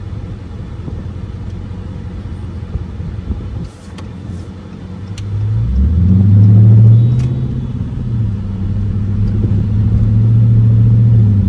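Car engine pulling under acceleration: a low drone that rises in pitch about six seconds in, is loudest a second later, then eases back and holds steady.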